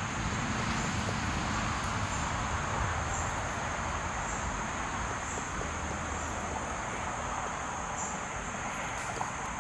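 Steady outdoor background of a broad rumble and hiss like distant traffic, with insects chirping in a high drone that swells in regular pulses under a second apart.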